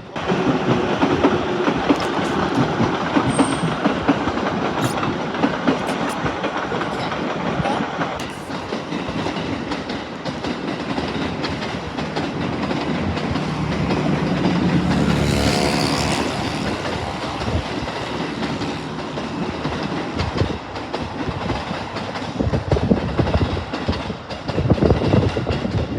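Electric train running along the tracks, wheels clacking over rail joints, with a brief pitched tone about halfway through. The sound changes abruptly a few seconds before the end.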